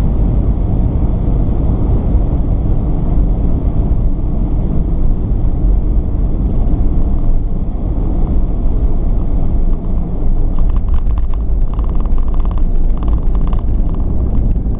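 Airbus A320 on final approach: steady, loud low roar of engines and airflow through the cabin. About ten seconds in the main wheels touch down and rapid, irregular rattling sets in over the roar, with a pulsing tone from the rollout.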